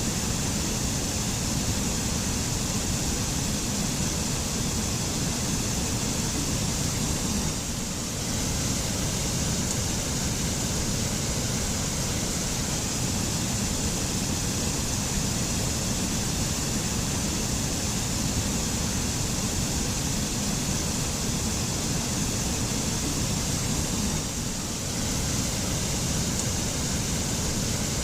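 Mountain waterfall in a forest, water falling and splashing in a steady, even rush, dipping slightly twice.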